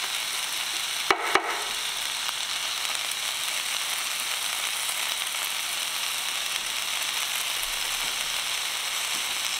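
Garlic, onions and bell peppers sautéing in olive oil in a red enamelled pot, a steady sizzle. Two sharp knocks come about a second in.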